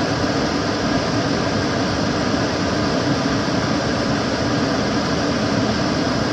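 Kitchen cooker hood extractor fan running steadily: a constant rushing of air with a low hum, unchanging throughout.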